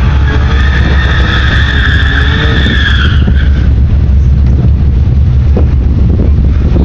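A motor vehicle running hard under a loud, steady low rumble. A high-pitched whine in two steady pitches rides over it for about the first three seconds, then cuts off.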